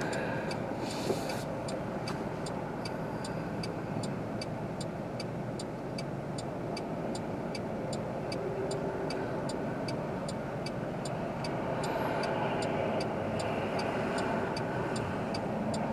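Steady hum of a car heard from inside the cabin, with the turn signal ticking at an even pace.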